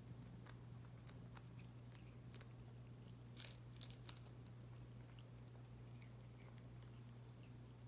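A cat chewing and biting on grass: faint, irregular crunching clicks, bunched together about two and a half to four seconds in, over a low steady hum.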